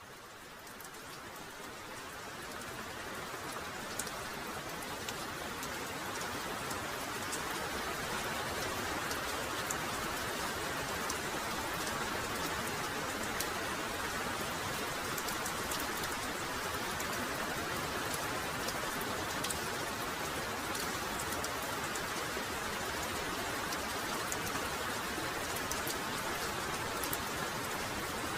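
Heavy rain falling steadily: a dense hiss with sharp drop ticks scattered through it. It fades in over the first several seconds, then holds level.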